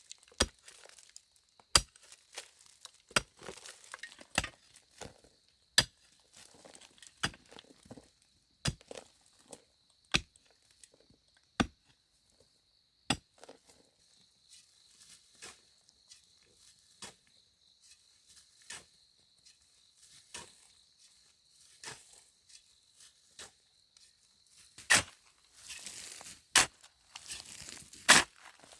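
A hand tool striking wood or earth in a steady work rhythm, a sharp knock about every second and a half, easing into lighter taps. Louder rustling and crunching follows near the end.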